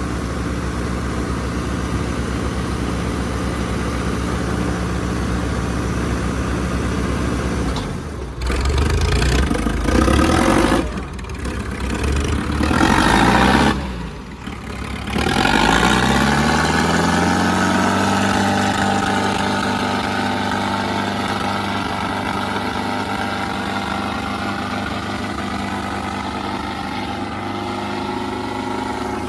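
Diesel tractor engines pulling hard in a tractor tug-of-war: a steady engine drone, then loud revving surges about a third of the way in, after which the engine note rises and holds steady at high revs.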